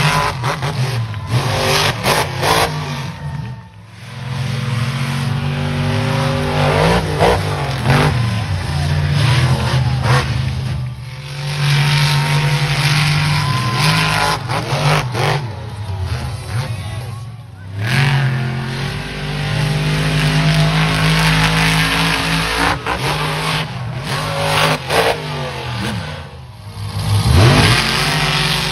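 Monster truck engines revving and running hard, their pitch rising and falling with the throttle. The sound breaks off abruptly several times and starts again at a new pitch.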